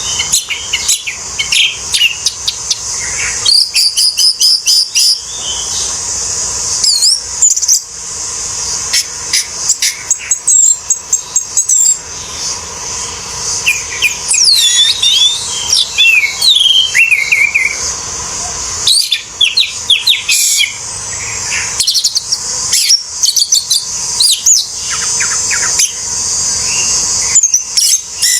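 Orange-headed thrush singing a rapid, varied song of sweeping whistles and chattering phrases, over a steady high hiss.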